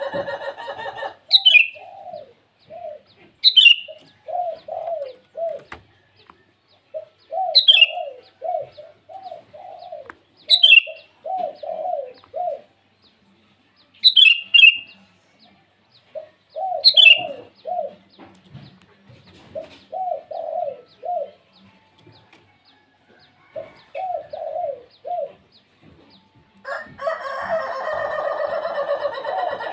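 Several birds calling: six short, sharp calls that fall in pitch come at intervals of a few seconds, groups of low, arched cooing notes sit between them, and a louder, fuller call is heard at the very start and again near the end.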